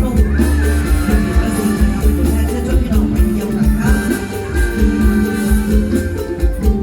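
Live mor lam band music with a heavy bass beat under a melody line.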